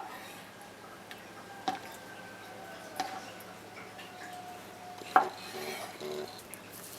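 Kitchenware knocking and clinking: three sharp knocks a second or two apart, each leaving a lingering ringing tone, with softer clatter near the end.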